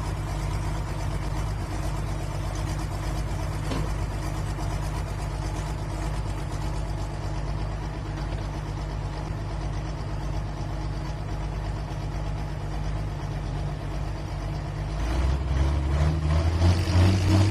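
Pro Stock pulling tractor's big single-turbo 680-cubic-inch engine idling steadily. About 15 seconds in, a deeper, louder engine note comes in as another tractor's engine runs up close.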